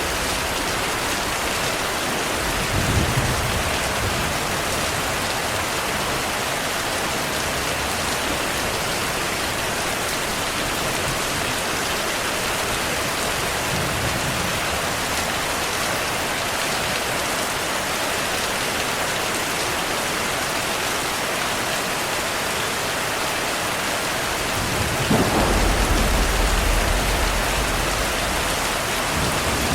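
Heavy rain falling steadily, with thunder: a short low rumble about three seconds in, and near the end a louder clap that rolls on as rumbling thunder for a few seconds.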